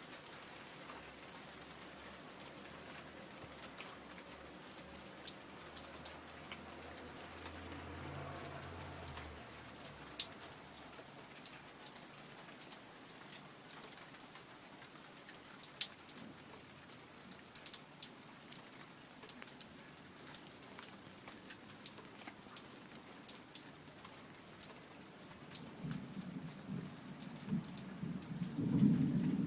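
Steady rain with many separate drops pattering and dripping on hard surfaces. A low rumble, distant thunder, comes around eight seconds in, and a louder low rumble builds near the end.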